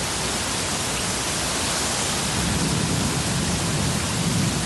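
Storm water rushing steadily: a dense, even hiss, with a low rumble swelling from about halfway in.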